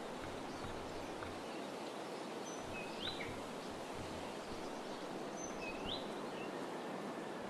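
A small bird calling twice about three seconds apart, each call a short note that sweeps sharply up in pitch, over a steady outdoor background hiss.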